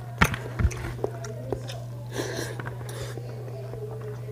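A person chewing and biting food, with a few sharp mouth clicks and smacks in the first second and a short rustle about two seconds in. A steady low hum runs underneath.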